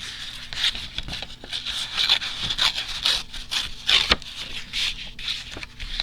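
Paper being handled and slid into place on a journal page: a quick, irregular run of dry scrapes and rubs.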